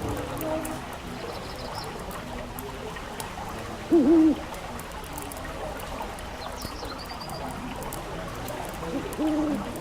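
Owl hooting: two short, low hoots about five seconds apart, over the steady crackle and hiss of a fireplace fire.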